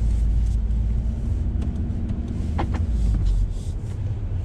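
Volkswagen Golf R's turbocharged four-cylinder engine running as the car drives away, a steady low drone heard from inside the cabin that eases off a little after about three seconds.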